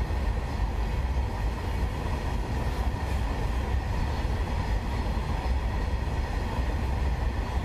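A long freight train of open steel wagons rolling past, a steady rumble of wagon wheels on the rails.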